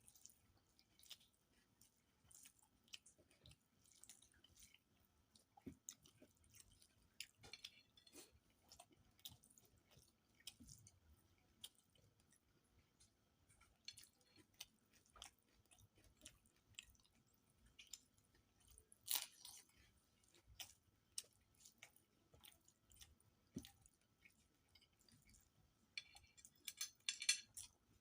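Faint, close-up mouth sounds of eating rice with fish curry: irregular soft chewing smacks and clicks, with a louder one about two-thirds of the way through and a quick run of clicks near the end.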